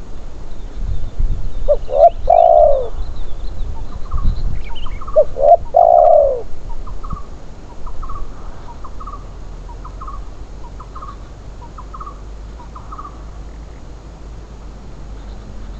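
Spotted dove cooing: two loud, arching coos a few seconds apart, followed by a run of short, softer, higher notes.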